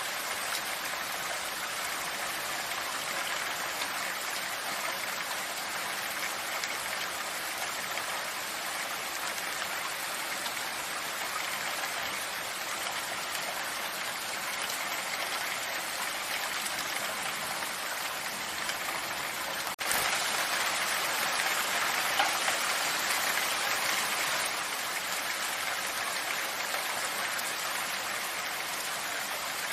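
Steady rain falling, an even hiss of water. About two-thirds of the way through it cuts abruptly to a louder stretch for a few seconds, then settles back.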